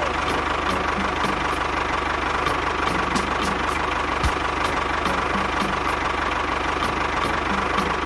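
A tractor engine running steadily, with a regular knocking beat.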